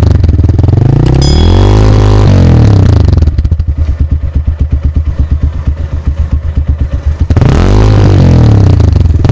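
Lifan KPR motorcycle's single-cylinder engine through an aftermarket Akrapovic exhaust, revved on the stand. Two throttle blips rise and fall, then it settles to a lumpy, pulsing idle for about four seconds. It is blipped again near the end.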